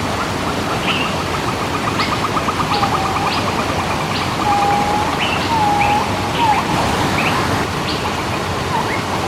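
Waterfall rushing steadily, with birds calling over it: short chirps and whistles throughout and a rapid trill in the first few seconds.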